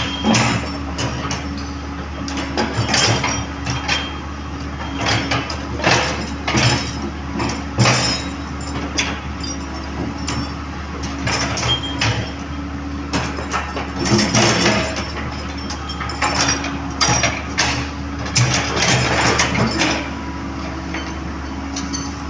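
Komatsu PC130 excavator's diesel engine idling steadily, with irregular metallic clanks and knocks from work on the track coming in clusters over it.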